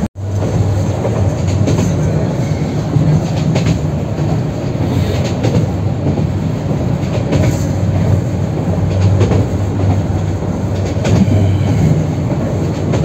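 Train running on the rails: a steady rumble with scattered clicks of the wheels over the track.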